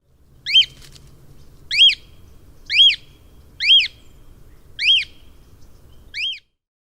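Cockatiel calling: six loud whistled calls, each rising and falling in pitch, about one a second.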